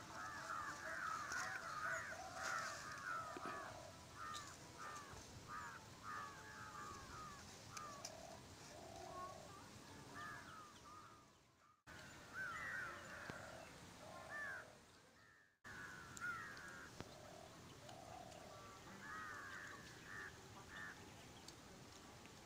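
Birds calling and chattering, a run of short, quickly repeated calls, broken twice by brief gaps.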